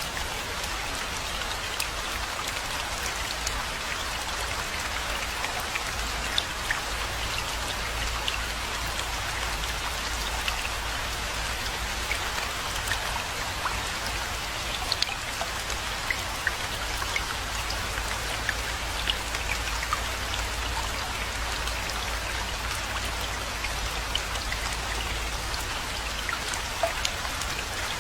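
Steady rainfall: an even hiss of falling rain with many scattered individual drop hits, over a steady low rumble.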